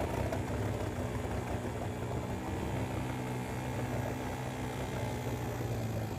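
1969 British Seagull single-cylinder two-stroke outboard motor running steadily.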